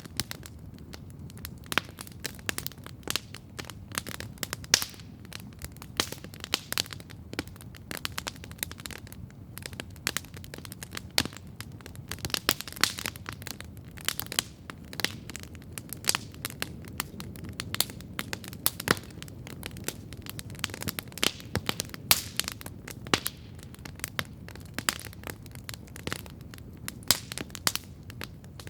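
Wood campfire crackling steadily, with frequent irregular sharp pops and snaps over a low, soft rush of burning.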